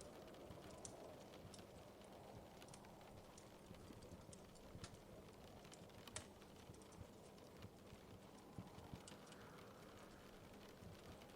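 Faint wood fire crackling in a fireplace: irregular sharp pops and snaps over a low steady hiss.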